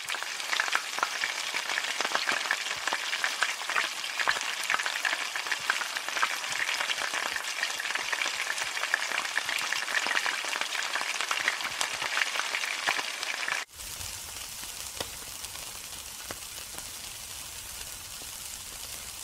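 Food frying in hot oil in a wok, a dense crackle of spitting pops. About fourteen seconds in it cuts to a quieter, steadier sizzle of meat skewers on a charcoal grill.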